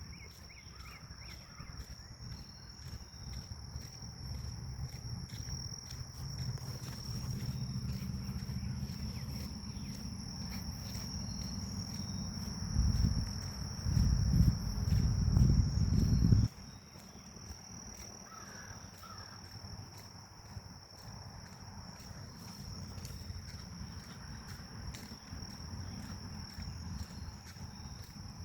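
Forest insects keep up a steady high drone throughout, with a few faint bird chirps. Wind buffets the microphone as a low rumble that builds, is loudest just past halfway, and then cuts off suddenly.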